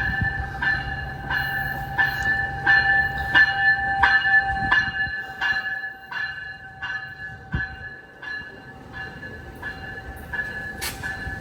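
Bell ringing steadily, about one and a half strikes a second, as an Amtrak Capitol Corridor train pulls into the station, the train's low rumble dying away about halfway as it slows to a stop.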